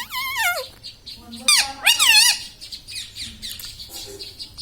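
Indian ringneck parakeet squawking twice, each call under a second long with a quickly wavering pitch: one at the start and another about a second and a half in.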